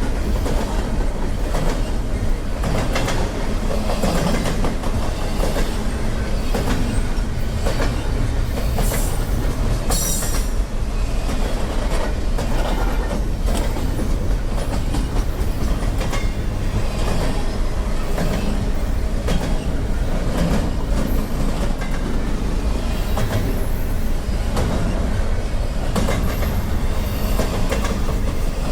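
Freight train cars rolling past: steady wheel and rail noise with clickety-clack over the rail joints. Brief high-pitched wheel squeals come about ten seconds in and again near the end.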